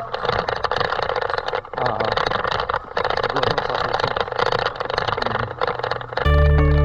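A steady rushing noise with faint voices under it, which stops suddenly near the end as acoustic guitar music starts.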